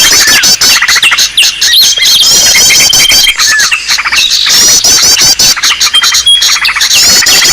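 A noisy chorus of many small songbirds calling at once, the kind of recording played to lure small birds into a trap. It is a dense mix of quick chattering chirps and fast high trills, with a thin held whistle that comes and goes several times.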